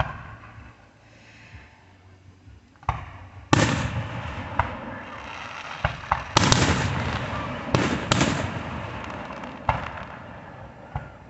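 Fireworks going off: a run of sharp bangs, each followed by a crackling tail. It starts about three seconds in, after a quieter opening, with the loudest blasts in the middle and smaller pops between them.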